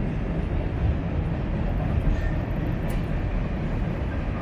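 Steady low rumble of wind buffeting a small handheld camera's microphone during a bike ride, with a faint click about three seconds in.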